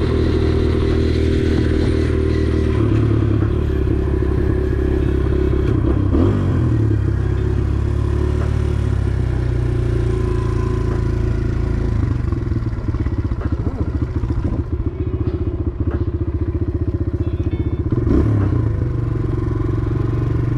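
Motorcycle engine running at steady revs, then settling about twelve seconds in to a lower, pulsing idle.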